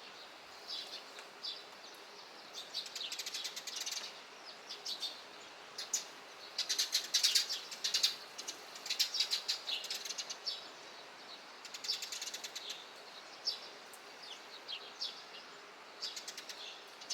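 Eurasian tree sparrows chirping in quick runs of short chirps, busiest and loudest in the middle, over a steady background hiss.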